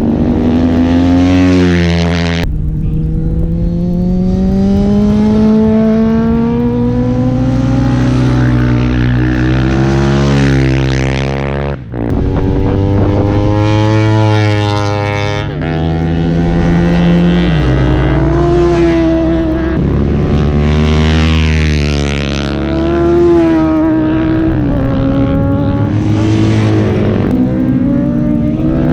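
Superbike engines revving on a race track, climbing in pitch and dropping back at gear changes. The sound cuts abruptly to a different bike a few times.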